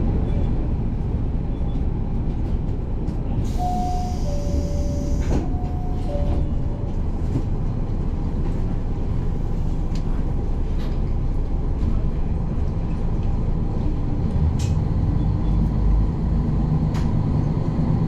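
Train running with a steady low rumble. A short hiss comes in about three and a half seconds in, and a two-note descending chime sounds twice around four and six seconds in.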